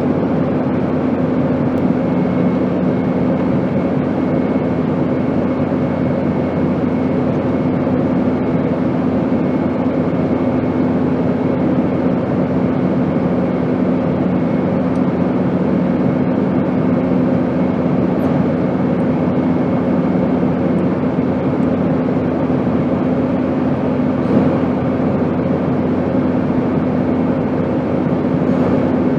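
Steady airplane noise: a constant, even drone with several steady hums under it. One of the lower hums fades out about two-thirds of the way through.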